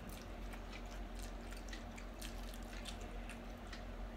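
Two people chewing mouthfuls of noodles, with small, quiet wet mouth clicks and smacks about four times a second over a steady low hum.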